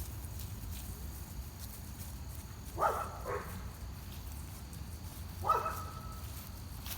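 Dogs barking: two quick barks about three seconds in, then a single bark about two and a half seconds later.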